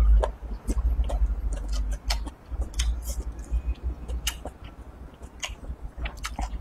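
Close-miked chewing of a mouthful of rice with stir-fried edamame and pork belly: irregular wet smacking clicks, several a second, over a low rumble.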